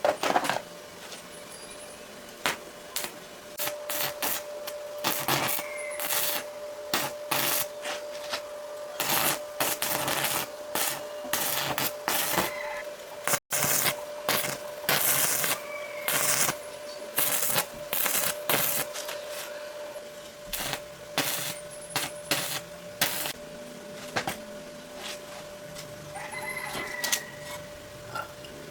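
Irregular clicks, taps and knocks of small parts and hand tools being handled during a repair, over a faint steady hum.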